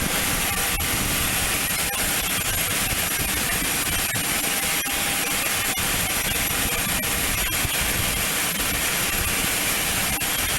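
Learjet's jet engines running at low power before takeoff: a steady, loud rushing noise with a faint high whine.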